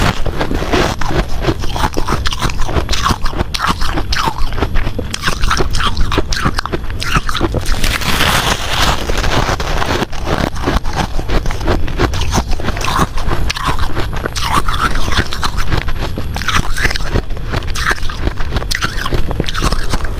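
Close-miked biting and crunching of ice from the freezer, a continuous run of crisp crunches and scrapes with no pauses.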